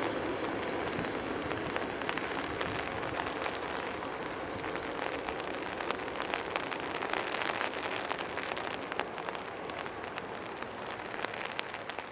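Steady rain hissing, with many raindrops ticking close to the microphone, over a low rumble from the Boeing 767-300ER's engines as the jet rolls out on the runway.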